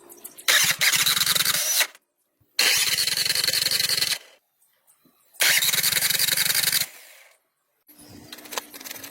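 Old car engine cranking on its starter motor in three short bursts of about a second and a half each, with abrupt silent gaps between them.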